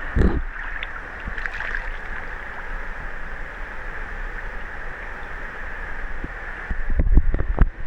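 Steady rush of flowing river water close to the microphone, with a low thump near the start and a quick run of heavy low thumps and splashes near the end.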